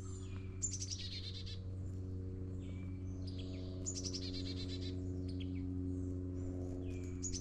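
A songbird singing a high, fast trill that falls in pitch, three times about three seconds apart, with shorter chirps from other birds between. A steady low hum lies under it.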